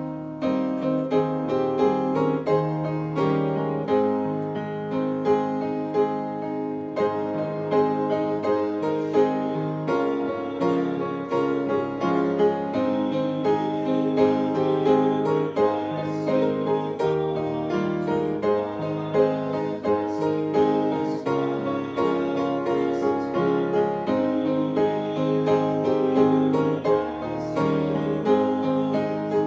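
Piano music: a continuous piece played on piano, with many overlapping notes.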